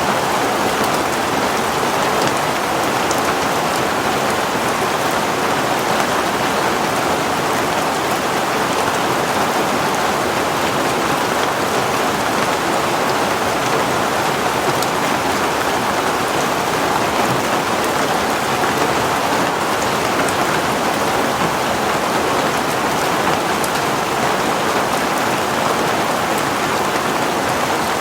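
Heavy rain falling steadily, an even, unbroken downpour with faint scattered drop ticks.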